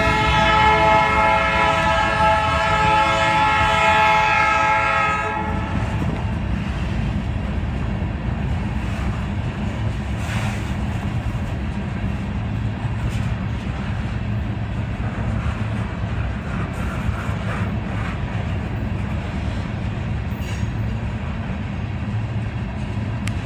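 Freight locomotive horn sounding one steady multi-note chord, cutting off about five seconds in. After that comes the steady low rumble of a Canadian Pacific grain train's cars rolling past.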